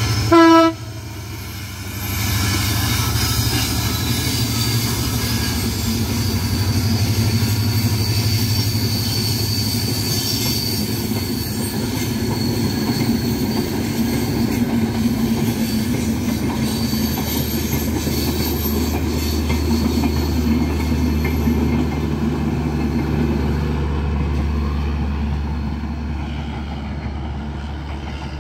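Diesel locomotive horn sounding one short blast about half a second in, then the steady rumble of the diesel-hauled intercity passenger train rolling past, locomotive engine first and then the coaches on the rails. It fades over the last few seconds as the train moves away.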